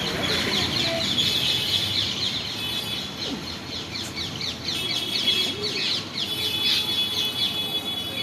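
Parrot giving a long run of rapid, high-pitched chirps and squawks, many calls a second.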